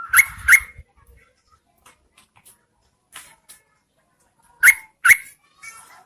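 Yellow-vented bulbul calling: a pair of loud, sharp, short notes at the start, softer notes in between, and another loud pair about four and a half seconds in.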